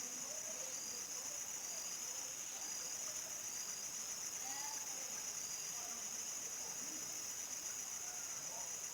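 Crickets singing at dusk: a steady, high-pitched chorus, with faint short chirps repeating about once a second and scattered faint lower calls beneath.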